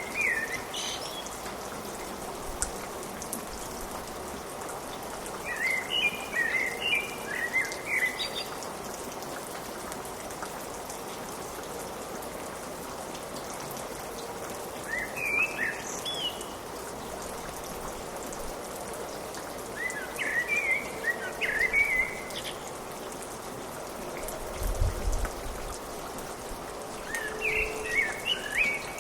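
Steady rain falling, with birds chirping in short bursts of quick chirps every several seconds.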